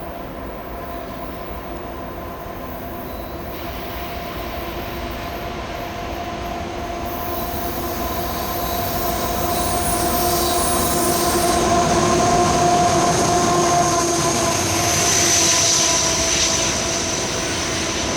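CSX freight train rolling on the rails, its steel wheels squealing with steady high tones over the rumble. It grows louder as it approaches, with a sharper, higher squeal about fifteen seconds in.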